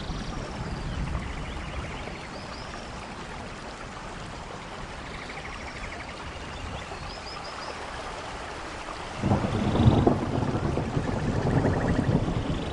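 Steady rain, with a rumble of thunder breaking in suddenly about nine seconds in and rolling on to the end.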